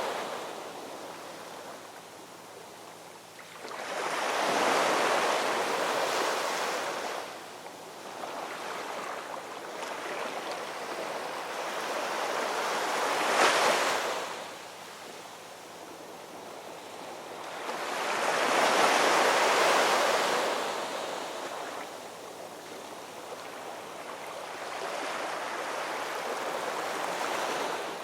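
Ocean waves breaking and washing up the shore in four slow swells of surf, each rising and fading over a few seconds. The sharpest crash comes about halfway through.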